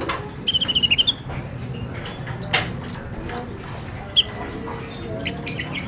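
Kolibri ninja (plain-throated sunbird) singing: quick high chirps and twitters, with a fast run of trilled notes about half a second in. A steady low hum runs underneath.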